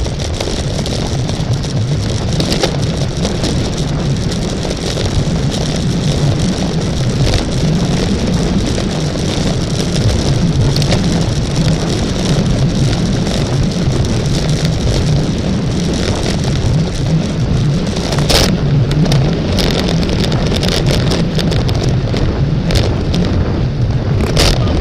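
Steady loud wind rush and road noise from a bicycle moving at race speed, heard on a bike-mounted camera's microphone. A couple of sharp clicks come near the end.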